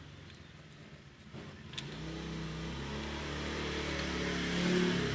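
A motor vehicle engine running. It comes in about a second and a half in and grows steadily louder, rising slightly in pitch, and is loudest near the end.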